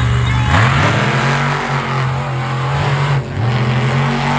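Monster truck engine running loud and being revved, its pitch climbing about half a second in, then dropping and picking up again twice.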